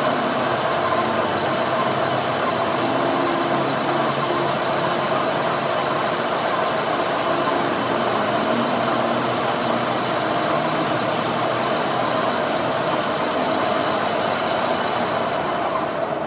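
A workshop machine running steadily with a continuous mechanical grinding and rumbling noise.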